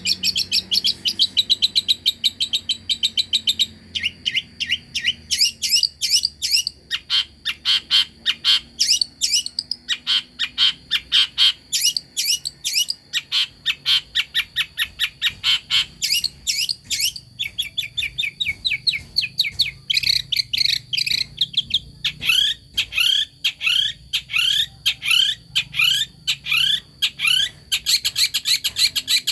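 Long-tailed shrike (cendet) singing continuously: rapid chattering trills and runs of quick, downward-sweeping notes repeated in fast series.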